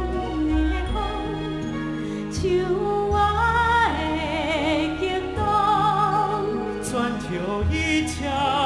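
Musical-theatre song: a singer holding long notes with vibrato over orchestral accompaniment.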